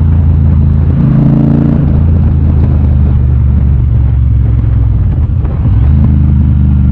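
Triumph Bobber's 1200 cc parallel-twin engine running on the move. The revs rise briefly about a second in and again near the end.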